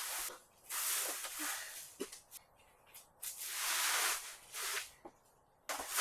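Several short rustling swishes, each under a second long, with quiet gaps between.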